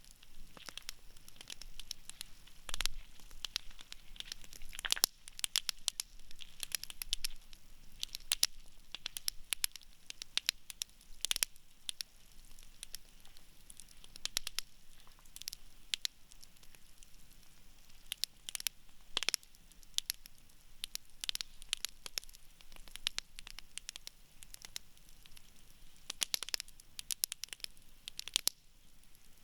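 Wood campfire in a fire pit crackling and popping, with irregular sharp snaps of burning wood, a few of them louder.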